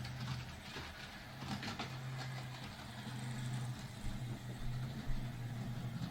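Model train running on a layout: a steady electric-motor hum with scattered light clicks from the wheels on the track.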